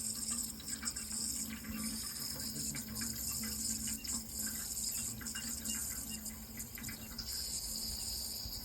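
Running water trickling and splashing in small, scattered drops, over a steady high-pitched chorus of crickets.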